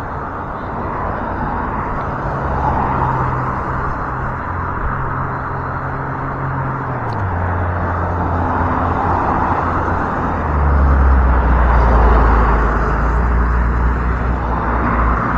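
Road traffic on a busy road: a continuous rush of car tyres and engines that swells several times as vehicles pass close by.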